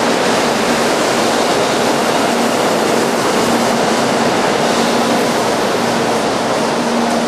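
A 100 series Shinkansen train running past along the platform, making a steady rushing noise of wheels on rail and moving air.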